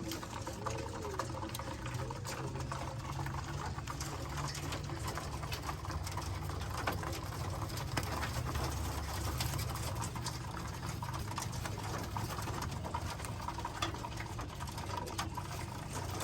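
Racing pigeons in their loft, with many small rapid ticks and taps typical of birds pecking at feed. A few cooing calls come in the first few seconds, over a steady low hum.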